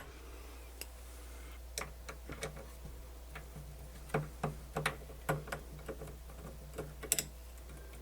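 Irregular light clicks and taps of small tools and metal parts being handled inside a cassette deck as its motor is being taken out, about a dozen in all, with a louder double click near the end.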